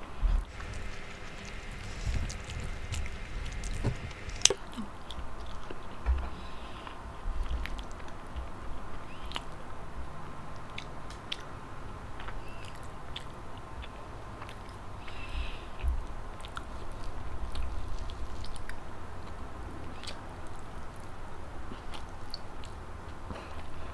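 Close-miked chewing of a soft mouthful of rice with salted egg and tomato, with moist mouth sounds and small clicks, and one sharper click about four and a half seconds in.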